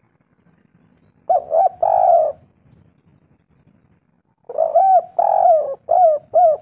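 Spotted dove (tekukur) cooing: a phrase of two short coos and a longer one about a second in, then a longer run of coos from about four and a half seconds.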